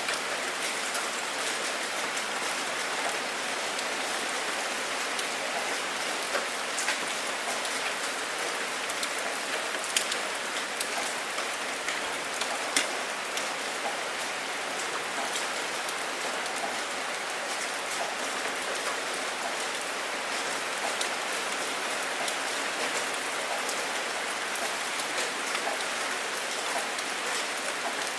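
Steady rain falling, with a few sharper single drops ticking now and then.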